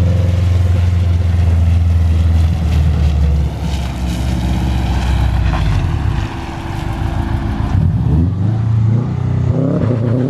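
Car engine running at steady revs, easing off about a third of the way in, then revving back up near the end.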